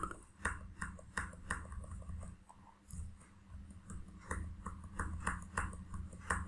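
Faint, quick clicking of a computer mouse and keyboard, about two to three clicks a second with short gaps, over a steady low electrical hum.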